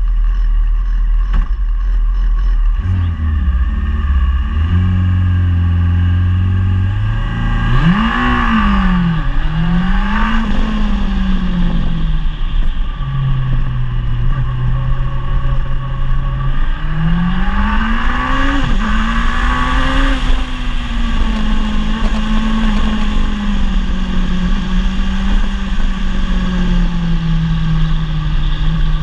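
Rally car engine idling at the stage start, then revs raised and held for a few seconds before the launch. It accelerates hard with the pitch climbing and dropping sharply at each gear change, settles into a steadier note, then pulls up through the gears again before easing into a slowly falling run.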